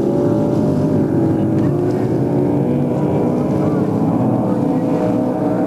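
Motorboat engines running, a loud steady drone with several pitches that drift slightly up and down.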